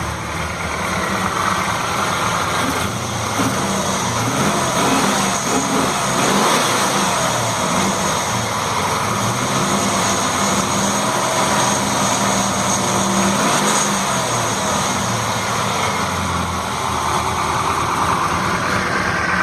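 E85-fuelled LT4 V8 engine running at idle, with the revs rising and falling twice, a few seconds in and again later on.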